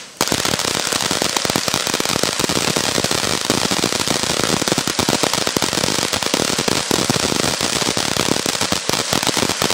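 Fireworks going off as a dense, unbroken rattle of small sharp cracks and crackling.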